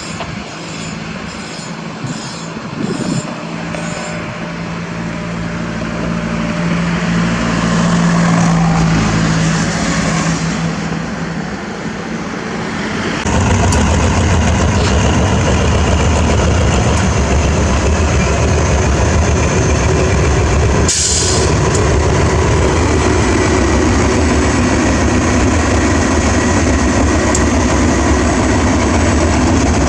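A diesel train drawing near and passing close by. Its engine and wheel noise build for about thirteen seconds, then the sound jumps suddenly to a loud, steady rumble as the train runs past, with a brief hiss about twenty-one seconds in.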